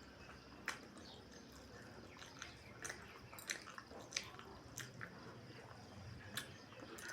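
Faint eating sounds: chewing and wet mouth clicks, about a dozen short, irregular smacks over a quiet background.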